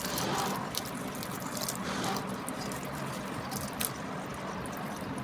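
Liquid trickling and dribbling, with scattered light clicks.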